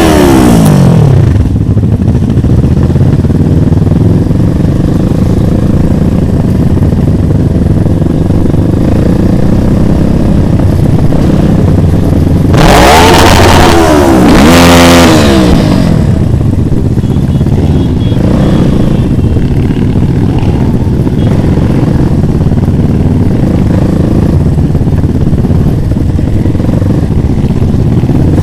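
Motorcycle engines running steadily. Two bikes pass close by, one right at the start and one about halfway through, and each time the engine pitch falls as it goes past.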